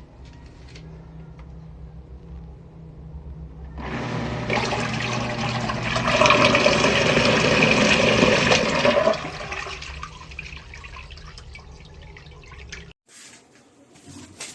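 Mini portable washing machine's motor humming steadily, with a loud rush of water churning in the tub that builds up and dies away over about six seconds. The motor stops near the end.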